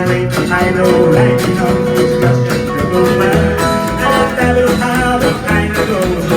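A live band playing an instrumental stretch of a rock song: guitar with bass and drums keeping a steady beat.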